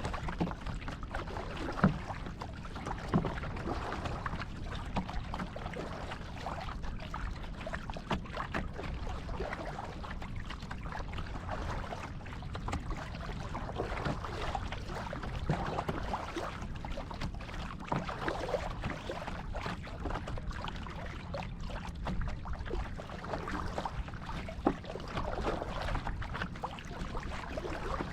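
Kayak paddle strokes dipping and splashing in the water, repeating every couple of seconds, with a few sharp knocks, over a steady low rumble.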